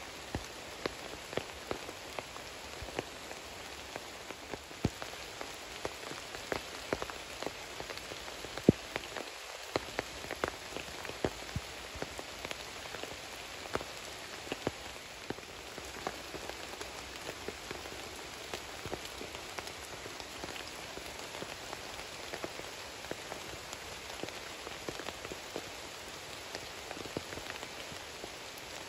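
Steady rain falling, with many individual drops ticking sharply close by among the even hiss of the rain.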